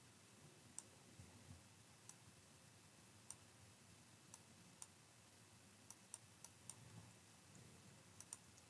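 Near silence with scattered faint clicks of a computer mouse, about fourteen at irregular intervals, some in quick pairs and runs around the middle and near the end.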